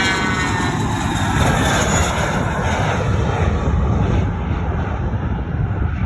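Airplane passing close overhead: its engine whine falls in pitch in the first second, giving way to a loud, steady rush of engine noise with a deep rumble.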